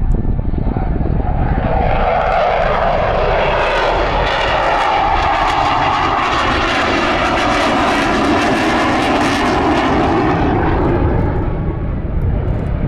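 Eurofighter Typhoon's twin jet engines as the fighter flies past: the noise builds, swells for several seconds and fades away near the end, with a tone that drops in pitch as it passes.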